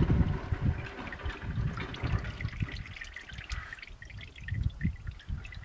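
Engine oil pouring in a trickling stream during a tractor oil change, the flow tapering off toward the end.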